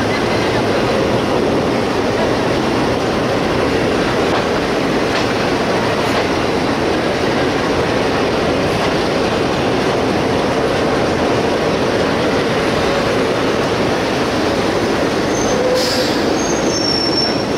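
Passenger train running slowly along the track: a steady noise of wheels on rail and running gear, with brief high-pitched squeals near the end.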